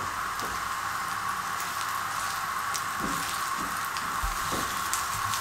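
Bread slices dipped in a spiced egg-and-onion batter sizzling steadily in shallow hot oil on a flat pan, with small crackles throughout.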